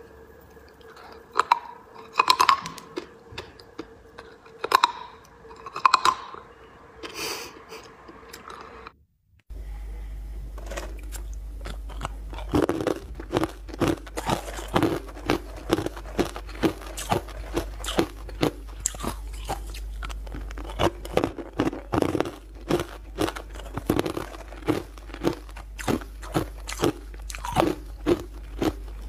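Close-miked eating. First a handful of separate sharp cracks and clicks over a faint hum. Then, after a brief cut, steady crunching and chewing of hard, brittle chunks, about two crunches a second.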